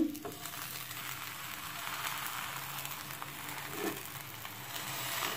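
Soft, steady sizzle of a sandwich frying in a little cooking oil in a non-stick pan on low flame, just turned over onto its freshly oiled side.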